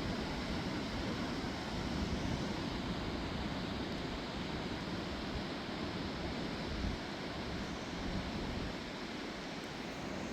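Steady rush of a river in flood, its fast water running without a break.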